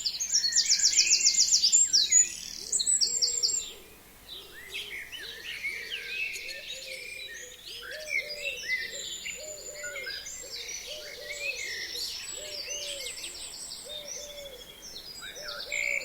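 A chorus of forest songbirds singing together. A loud, fast trilling song fills the first three seconds or so. After that, many overlapping high phrases continue, over a low, short call that repeats again and again.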